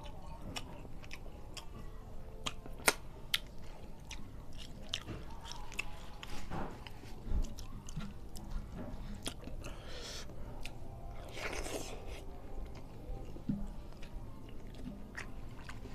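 Close-miked chewing and lip smacking as a person eats rice with his fingers, with frequent sharp mouth clicks and a louder click about three seconds in. Two longer rushing sounds come around ten and twelve seconds in.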